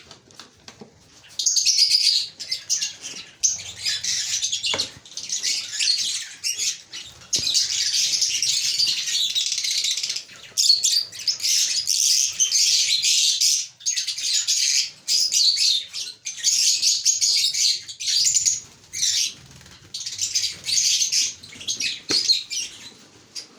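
Lovebirds chattering: dense, shrill chirping in long stretches with short breaks, starting about a second and a half in.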